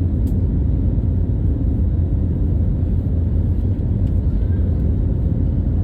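Steady low rumble of an Airbus A321's engines and airflow, heard inside the passenger cabin during the climb after takeoff.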